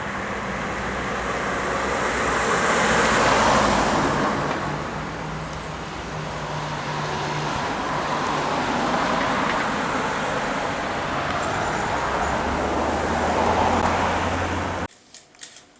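Road traffic: cars passing along a street, swelling loudest twice, about three seconds in and near the end, with an engine hum between. The traffic cuts off suddenly just before the end, leaving a few sharp clicks.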